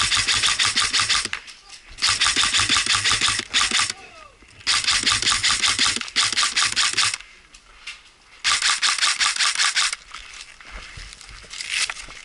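Airsoft gun firing close by in four strings of rapid shots, each a few seconds long, with a shorter, quieter string near the end.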